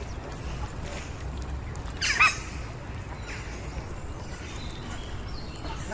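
A single short, harsh bird call about two seconds in, over a steady low background rumble.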